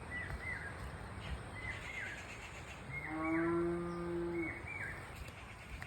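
A cow moos once, a steady low call lasting about a second and a half near the middle. A bird repeats short paired chirps before and after it.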